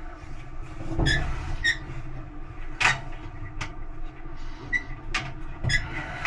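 Electrolux clothes dryer under repair: a steady low hum with several short squeaks and sharp metallic clicks.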